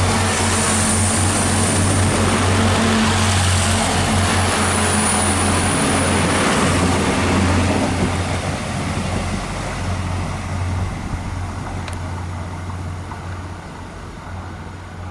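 Irish Rail diesel multiple-unit train passing close by, its engines humming under a loud rush of running noise, which fades after about eight seconds as the train moves away down the line.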